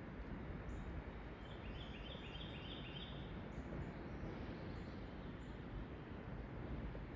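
Wild birds singing: one bird repeats a quick two-part note about four times a second for roughly two seconds, starting about a second and a half in, while others give short high chirps here and there. A steady low rumble of outdoor noise lies underneath.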